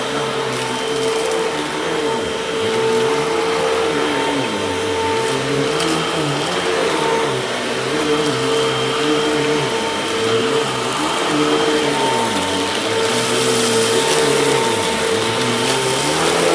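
Freshly cleaned-out and refurbished Hoover vacuum cleaner running with a steady motor whine. Its lower hum rises and falls in pitch every couple of seconds.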